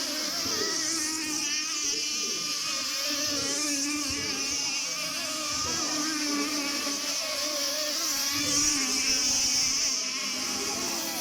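Several radio-controlled racing boats' small engines buzzing at high revs together, their pitches wavering up and down as the boats race and turn.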